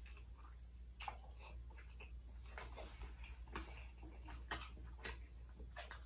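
Faint eating sounds from a mouthful of crispy Southern fried chicken: irregular crunches and mouth clicks about once a second, the sharpest about four and a half seconds in.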